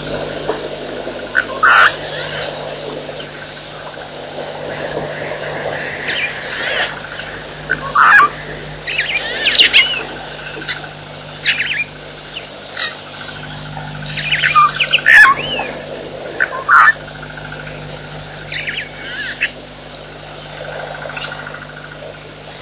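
Birds chirping and calling: short calls of quick rising and falling notes, scattered every second or two, over a steady low hum.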